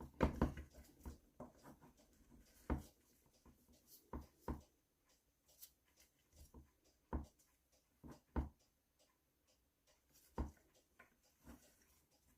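Scattered light clicks and knocks, about ten in all and irregularly spaced, from metal tools and small engine parts being handled during the strip-down of a moped engine.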